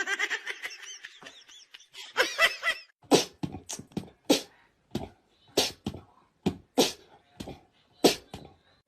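A small dog vocalizing: a few high, wavering whines, then a run of about a dozen short, sharp yaps spaced irregularly about half a second apart.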